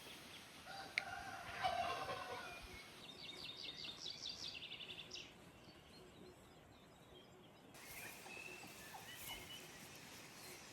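Farmyard poultry calling, with a turkey gobbling: a wavering call about a second in, then a fast rattling run of high notes, with fainter bird calls later.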